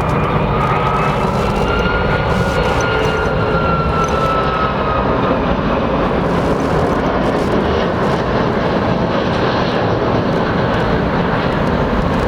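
Airliner engines passing close by: a loud, steady rumble with a high whine that rises gently, then falls and fades about halfway through.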